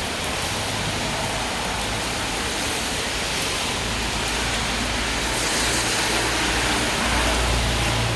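Steady rain falling on a city street, an even hiss. A low rumble of traffic grows in the second half.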